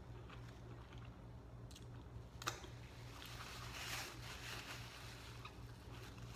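Faint mouth-closed chewing of food, with a sharp click about two and a half seconds in. A paper napkin rustles against the mouth in the second half.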